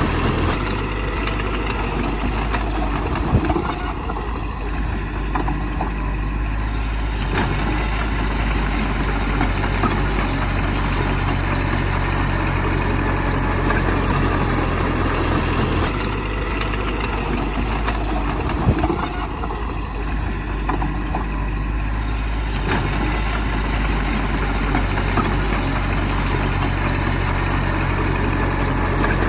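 Heavy earthmoving machine's diesel engine running steadily, with two brief knocks, one a few seconds in and one past the middle.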